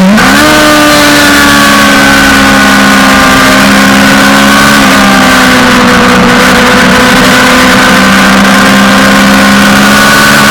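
Suzuki GSX-R600's inline-four engine running at high revs on track, its pitch dipping and jumping back up at the start, then holding nearly steady with a small change about five seconds in. Heavy wind rush over the bike.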